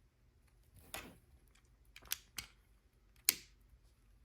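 Hard plastic LEGO pieces clicking as they are handled and pressed together: a handful of sharp, scattered clicks, the loudest about three seconds in.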